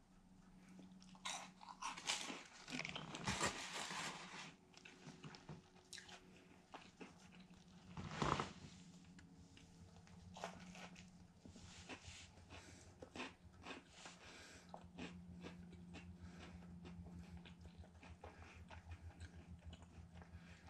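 A person biting into and chewing a Popeyes spicy chicken sandwich: crunches of the crisp fried breading in the first few seconds and a louder one about eight seconds in, then soft, steady chewing. A low steady hum runs underneath.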